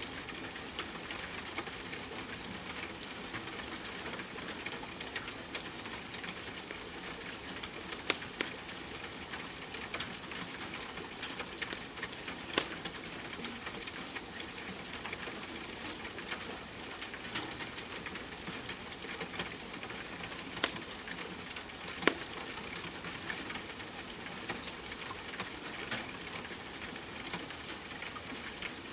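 Steady rain hiss mixed with a wood fire crackling, with a few sharper pops standing out now and then.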